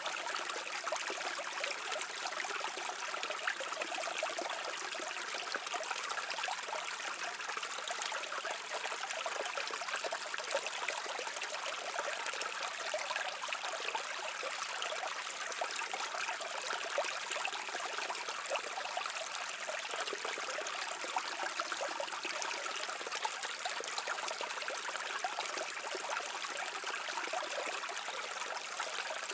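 A shallow brook running over stones, a steady babbling and trickling of water without pause.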